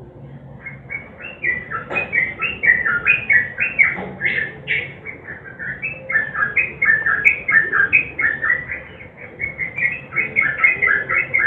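Yellow-vented bulbul (trucukan) singing a long, fast run of short chirping notes almost without a break.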